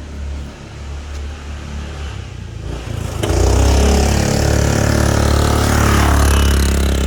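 Single-cylinder cart engine running at a low idle, then opened up hard about three seconds in and held at high revs, much louder.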